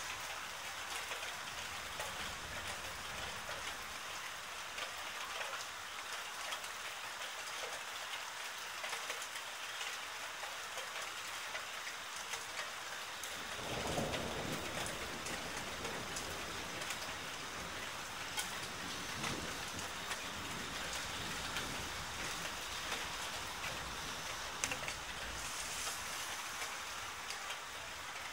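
Rain falling steadily, a dense hiss with scattered drop ticks. About halfway through a low rumble comes in and lingers under the rain.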